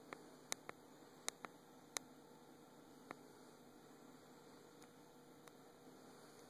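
Near silence: faint steady room hum with a few small sharp clicks, most of them in the first two seconds.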